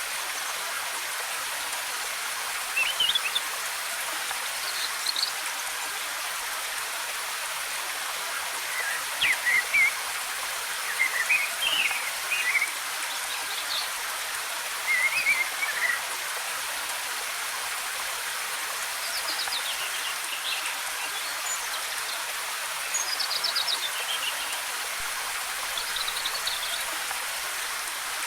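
Steady rushing of a waterfall, with small forest birds chirping and trilling in short phrases every few seconds over it.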